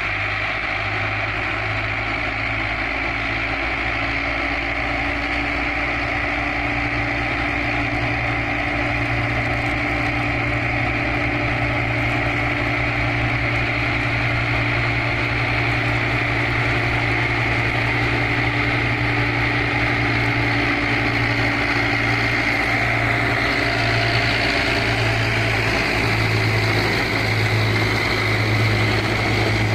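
Tractor engine running steadily while driving a straw reaper: a continuous low engine drone with the machine's higher whirring over it.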